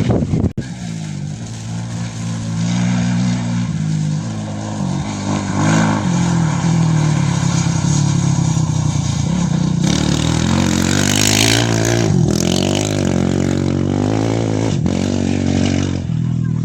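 A motor vehicle's engine running at length, its pitch rising and falling with the throttle.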